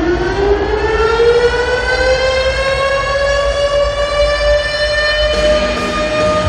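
A siren winding up: its wail rises steadily in pitch over the first few seconds, then holds a steady note, over a low rumble.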